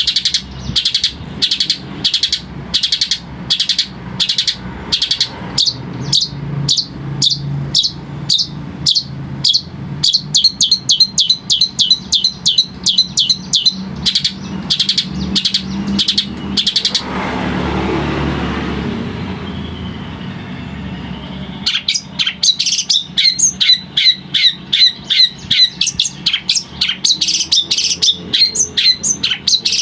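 Long-tailed shrike (cendet) singing in a rapid run of short, sharp chirps repeated a few times a second, quickening after about ten seconds. After about seventeen seconds the song breaks off for about four seconds while a swell of rushing noise rises and fades. The chirping then starts again, faster.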